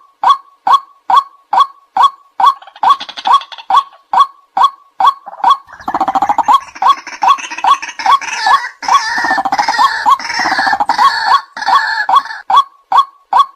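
White-breasted waterhen calling, a steady run of short 'kwak' notes about two and a half a second. From about six seconds in, a busier, harsher chatter of croaks and gurgles joins over the notes for several seconds, then the plain repeated notes carry on alone.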